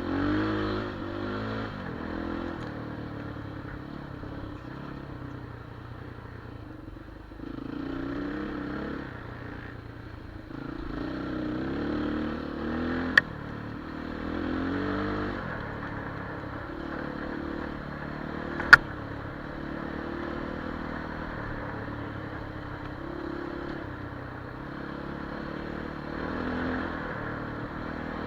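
Enduro motorcycle engine running and revving up and down repeatedly, with two sharp clicks, about 13 and 19 seconds in, the second the loudest sound.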